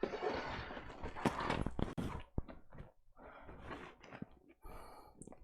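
Plastic parts of a Roomba i7+ Clean Base being pushed together by hand: scraping and rubbing with several sharp clicks and knocks as the pieces seat so their metal contacts meet.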